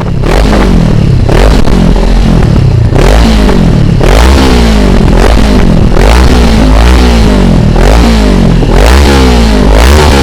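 Honda CB500F parallel-twin engine breathing through a GPR aftermarket exhaust, revved in repeated throttle blips, about one a second, each rising in pitch and dropping back toward idle.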